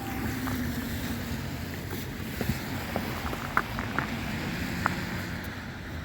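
Wind rumbling on the microphone outdoors, with a scatter of short sharp clicks or scrapes about two to five seconds in.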